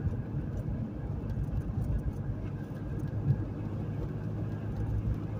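Steady low rumble of a car on the move, engine and tyre noise together, with one brief knock or bump about three seconds in.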